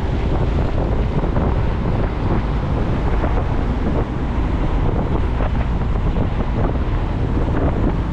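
Wind rushing steadily over the microphone of a moving motorcycle, with the bike's engine and road noise beneath it.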